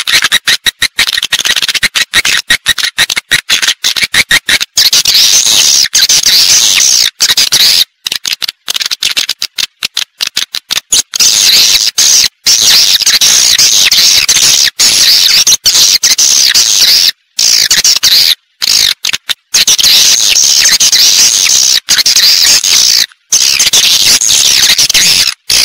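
Recorded swiftlet-house lure call: many edible-nest swiftlets chirping and twittering, high-pitched and loud. The sound stutters with rapid short breaks for the first half and then runs more continuously, with a few brief gaps.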